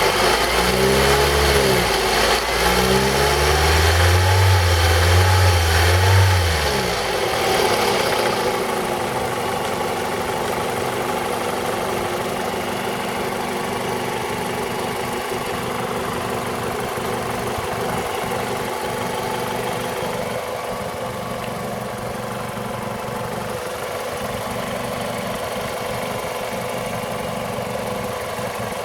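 Toyota RAV4 engine blipped several times in quick rises and falls, then dropping back to a steady idle for the rest of the time. It is running with a knock that the owner suspects comes from the VVT-i cam phaser.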